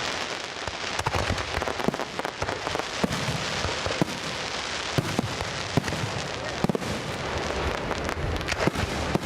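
Fireworks display: a dense, continuous crackling with many sharp pops and bangs going off in quick succession.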